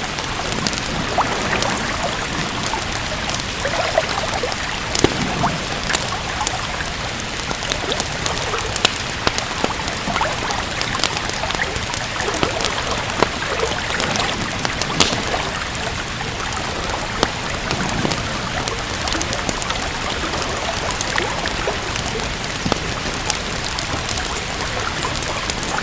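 Steady rain mixed with a crackling wood fire: a constant hiss with frequent short, sharp pops scattered through it.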